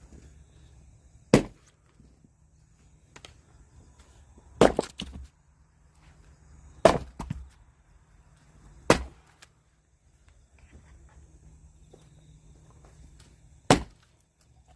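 Firewood being chopped: five sharp chopping blows spaced a few seconds apart, some followed by a brief crackle of the wood splitting.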